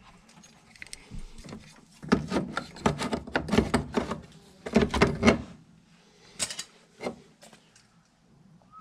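Clattering and knocking of tools and metal parts being handled: a dense run of knocks from about two seconds in until past five seconds, then a few single clicks.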